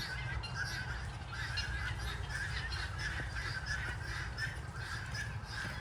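A flock of guinea fowl calling, a steady chatter of short, repeated chirps, over a low steady rumble.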